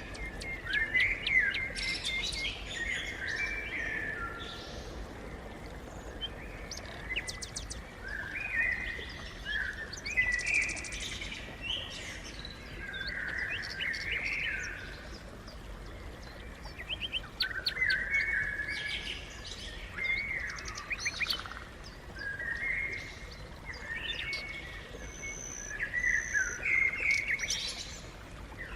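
Sparrows chirping: a flock's many short, often overlapping calls, with brief lulls between bouts.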